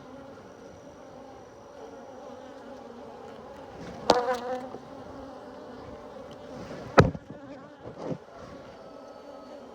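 Honeybees buzzing steadily around an open hive, with three sharp knocks about four, seven and eight seconds in, the one near seven seconds the loudest.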